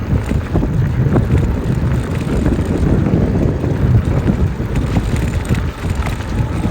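Wind buffeting the microphone of a rider on a moving e-bike: a steady, loud low rumble.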